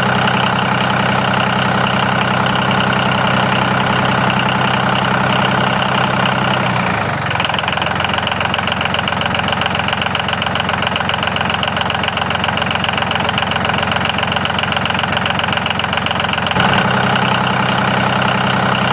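A tractor-like engine idling steadily with a knocking rhythm. Its note drops lower about seven seconds in and comes back up near the end.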